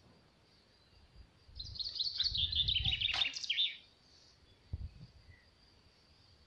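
A songbird singing one fast phrase of high chirps that falls in pitch, about two seconds long, starting about one and a half seconds in, over a faint steady high tone. A single soft thump comes shortly after the song ends.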